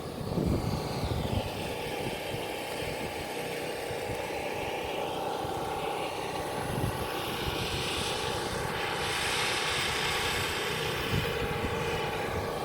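A propeller aircraft's engine drones steadily as it passes overhead. Its noise slowly falls and then rises again in pitch.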